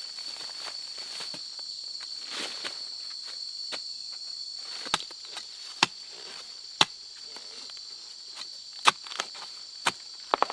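Insects trilling steadily at a high pitch. About six sharp clicks or snaps are scattered through the second half.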